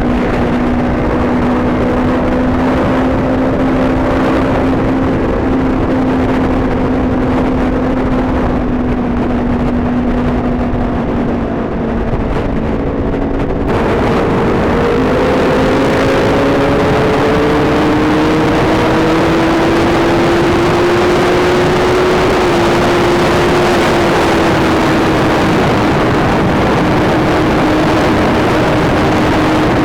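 Sport motorcycle engine running at a steady cruise under heavy wind rush. The note eases off about twelve seconds in, then climbs slowly as the bike gathers speed and levels out again.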